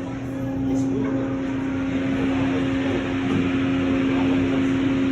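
Automatic car wash tunnel equipment running: a steady motor hum under a rushing noise that grows louder about two seconds in.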